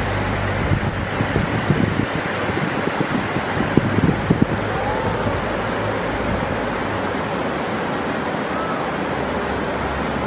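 Steady rush of fast river water, with a few sharp splashes or knocks in the first half.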